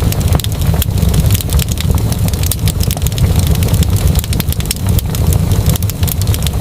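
Wood fire crackling: frequent small pops and snaps at irregular moments over a steady low rumble of burning.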